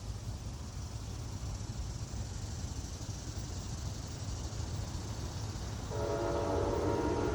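Low steady rumble, then about six seconds in a locomotive horn starts sounding: a held chord of several tones.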